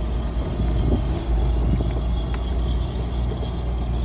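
1992 Ford Ranger pickup's engine pulling away under throttle with a manual gearbox, heard from inside the cab as a steady low rumble that builds over the first second.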